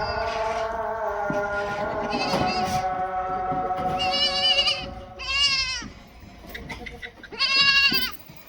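Goats bleating: three loud, wavering calls in the second half, after a few seconds of music with steady held notes.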